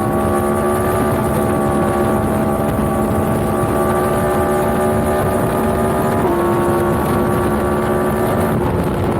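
Yamaha MT-10's crossplane inline-four engine running at a steady cruise, its note shifting slightly in pitch about two-thirds of the way through and again near the end, with wind rush on the microphone.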